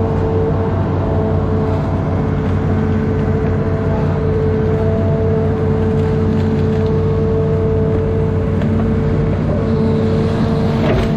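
Amphibious excavator's diesel engine running steadily, with a steady whine on top.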